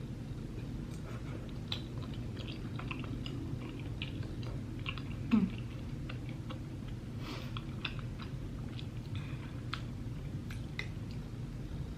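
A person chewing tteokbokki close to the microphone, with many small wet mouth and utensil clicks, over a steady low hum. One brief louder sound about five seconds in.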